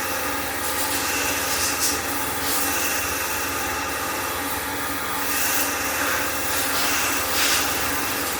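Steady rushing, hissing mechanical noise, with a few brief louder surges.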